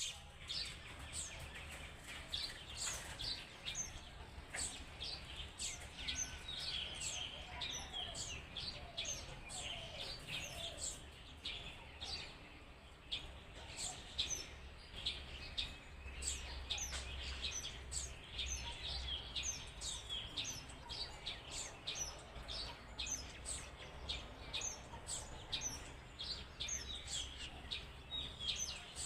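Many small birds chirping and twittering at once, a dense run of short, high overlapping calls without a break, over a faint low rumble.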